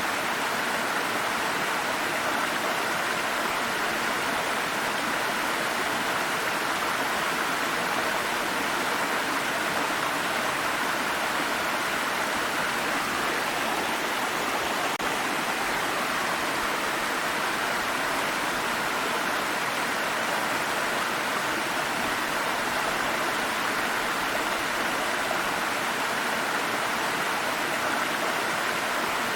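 Water stream running over rocks, a steady rushing babble.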